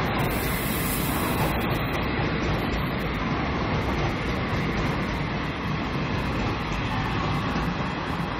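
Passenger coaches of an Indian Railways express train running past at speed: a steady noise of wheels on rails.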